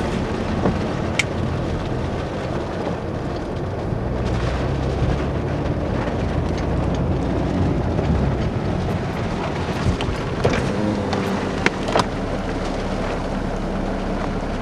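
Steady engine and road noise inside a moving car, with a few sharp clicks scattered through it.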